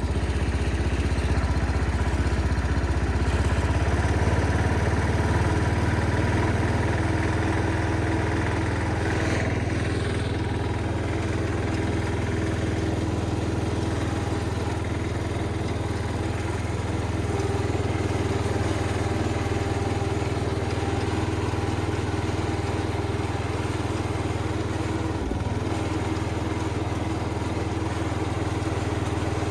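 MTD 990 garden tractor's small engine running steadily at high throttle during a test drive, now without backfiring after its carburettor's main jet was readjusted.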